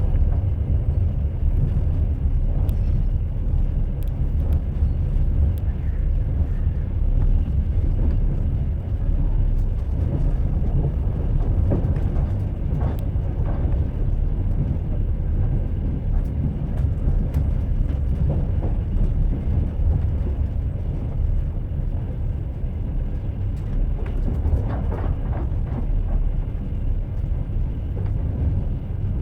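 Train running on rails: a steady low rumble of the moving train, with a few faint clicks of the wheels.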